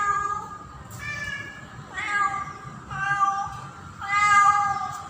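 Female domestic cat in heat calling for a male: five drawn-out meows in quick succession, about one a second, each held at a steady pitch.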